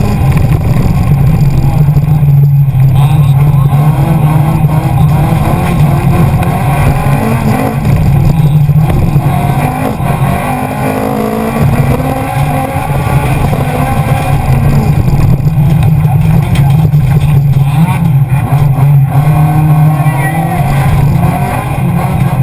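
Honda Civic 1.6i-VTEC four-cylinder engine heard loud from inside the cabin under hard race load, revs rising and falling through acceleration and gear changes on a loose dirt track.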